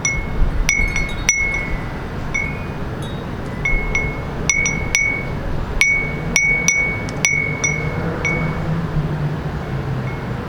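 Small wind chime ringing irregularly in the breeze: about a dozen clear, ringing strikes in loose clusters, busiest near the start and in the middle. Under it, a steady low hum of city traffic.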